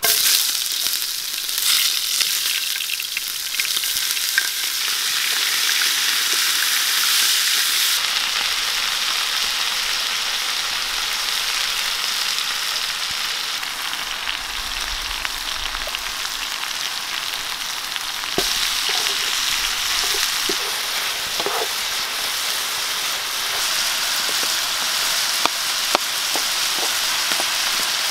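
Onion and then chicken sizzling steadily in hot oil in a frying pan, a dense frying hiss, with a few light clicks near the end.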